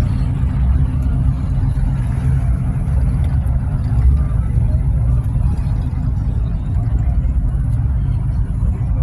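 A car engine running steadily with a deep, even low rumble.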